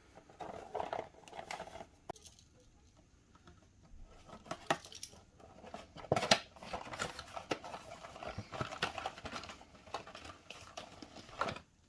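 Coffee pod variety packs and their packaging being handled: scattered light plastic clicks, taps and crinkling, quieter for a moment around two seconds in, with a sharper click about six seconds in.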